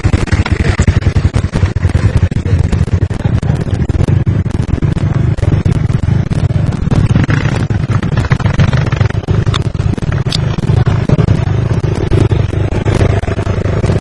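Enduro motorcycle engines running, under a heavy, continuous low rumble and crackle on the microphone; a steadier engine tone comes up near the end.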